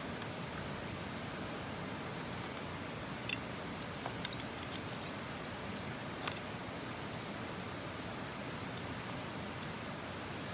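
Campfire burning with a steady hiss and a few sharp crackles and pops, the loudest about three seconds in.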